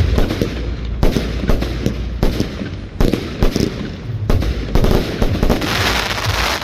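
Fireworks display: a quick succession of loud aerial shell bangs, about one every half-second to second, building into a dense crackling barrage near the end.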